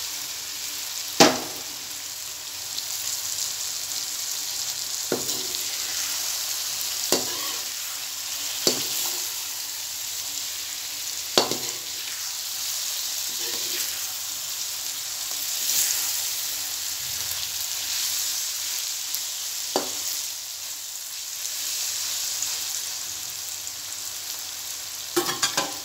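Okra and onion-tomato masala sizzling in an aluminium wok as a metal slotted spoon stirs it. A steady hiss runs under sharp metal clinks against the pan every few seconds, the loudest about a second in.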